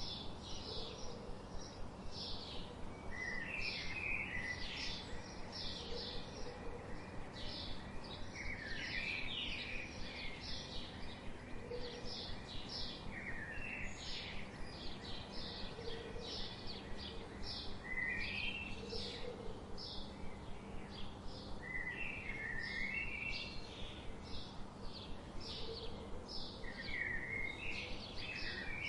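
Small songbirds chirping: a dense run of quick, high, short chirps throughout, with a brief warbling phrase that recurs every four to five seconds, over a steady low hum.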